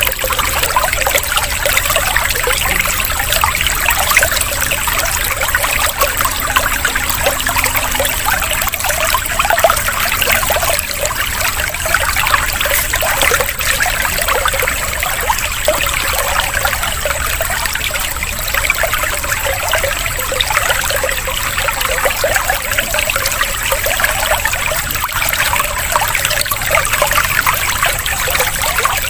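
Water trickling and splashing steadily, a continuous babbling with no break, used here as a soothing water-sound interlude.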